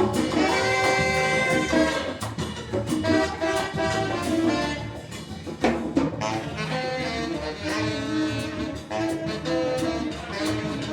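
Jazz ensemble playing, its horns holding sustained chords over a drum kit's frequent hits.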